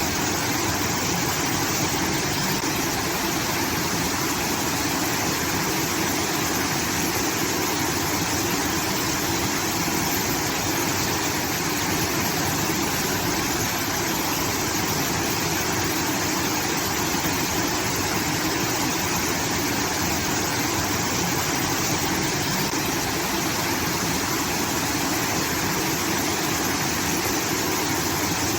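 Water from a rice-field irrigation outlet pouring and rushing steadily, like a small waterfall.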